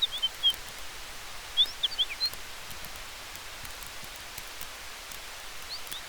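Steady hiss of wind through forest trees with faint crackling from a campfire. Quick high chirps of a small bird come in short clusters, just after the start and again about two seconds in, with a couple more near the end.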